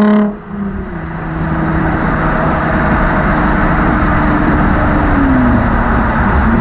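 Nissan 350Z's V6 with a Motordyne cat-back exhaust while driving: a loud high-rev pull cuts off just after the start, then the engine runs at a steady drone with road noise, its note dropping slightly about five seconds in.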